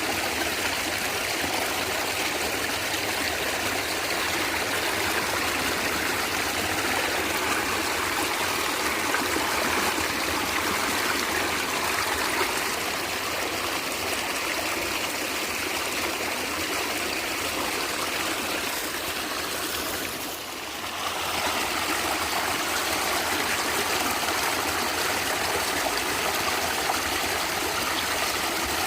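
A stream of water flowing and gurgling steadily, briefly dipping in level about twenty seconds in.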